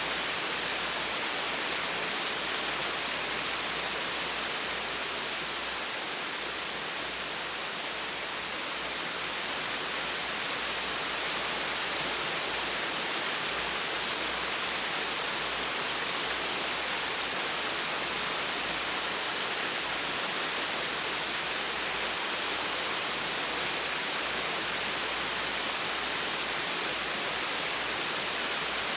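Small waterfall: a steady, even rush of falling water splashing into a pool.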